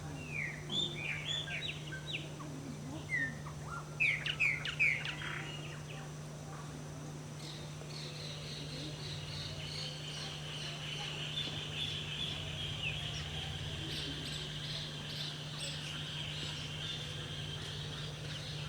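Birds calling: a string of short chirps in the first five seconds, then from about eight seconds a steady, high chorus of rapid notes, over a low steady hum.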